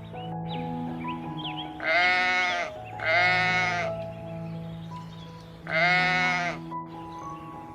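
Goat bleating three times, long wavering calls: two close together, then a third a couple of seconds later. Soft background music with held notes plays underneath.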